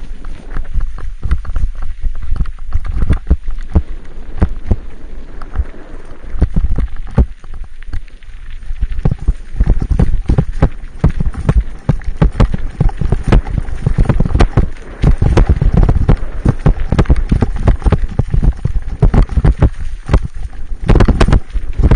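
Irregular knocking and rustling over a low rumble, getting busier about ten seconds in.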